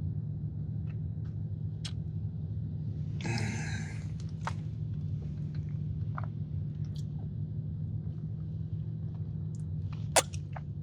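A person chewing a soft iced sugar cookie with scattered wet mouth clicks, and a breathy nasal exhale about three seconds in. A steady low hum runs underneath.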